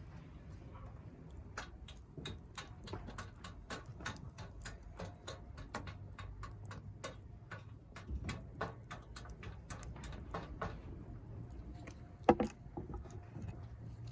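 Wood fire crackling in a fire-pit stand: irregular sharp pops, several a second, with one louder pop about twelve seconds in, over a low steady hum.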